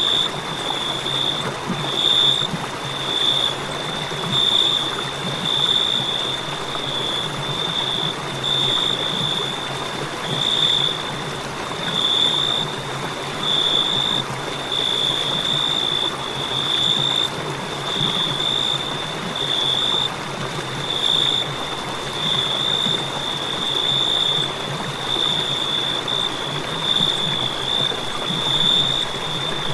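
Crickets chirping: a high, pulsing trill coming in bursts about once a second, over a steady background hiss like running water.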